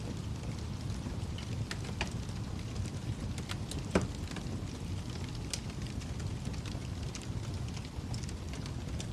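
Fireplace fire crackling: a steady low rumble of flames with scattered sharp crackles and pops, the loudest pop about four seconds in.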